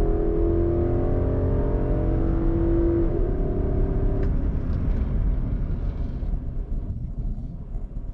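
Nissan Patrol's 5.6-litre V8 engine pulling hard under acceleration. Its note holds high, breaks once about three seconds in and drops away about a second later, leaving a rumble that fades near the end.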